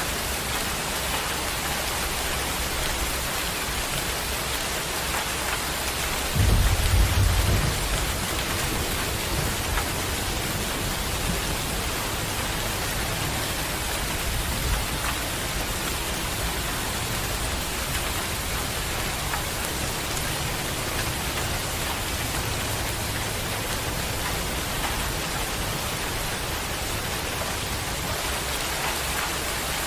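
Heavy rain falling steadily in a dense, even hiss, with a brief low rumble about six seconds in.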